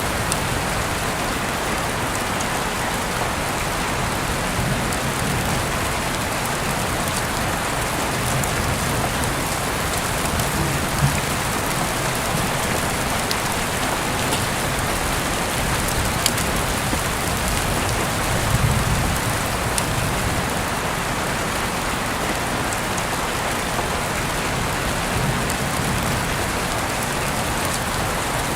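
Heavy rain falling steadily, an even hiss with scattered sharp drop ticks and a low rumble that swells now and then.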